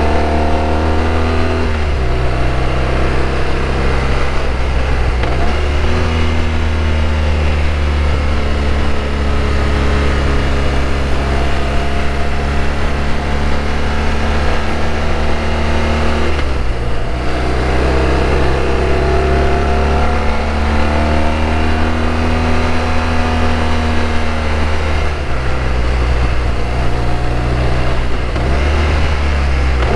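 BMW R1200RT boxer-twin engine pulling under way on a motorcycle, over a steady rush of wind. The engine note holds, then drops suddenly and climbs again a few times, about halfway through and near the end, as the rider shifts through the gears.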